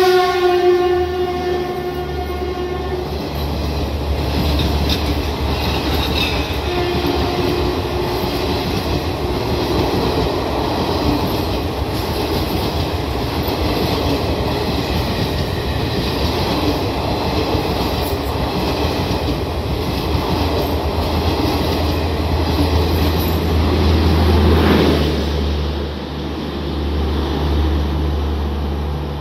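Express train running through a station at speed without stopping: the WAP-4 electric locomotive's horn sounds loudly for about three seconds as it passes, and a second, fainter horn tone follows a few seconds later. Then the coaches rush by with a steady rumble and clatter of wheels on rail, which drops away about four seconds before the end as the last coach goes past.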